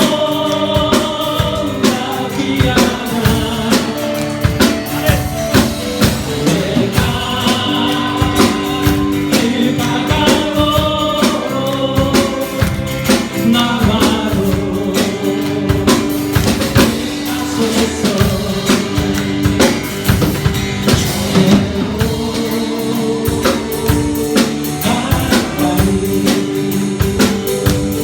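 Congregation and worship band singing a praise song, with a drum kit keeping a steady beat and clapping along.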